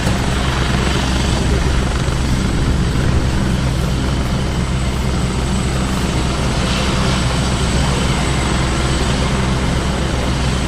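Rescue helicopter running close by: a loud, steady rotor and engine drone with a low, evenly spaced beat.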